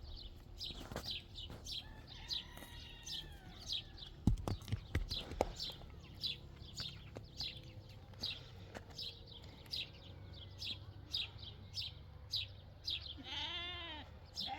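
Short high chirps repeating a few times a second, with a few knocks around the middle, and near the end a wavering bleat from a farm animal.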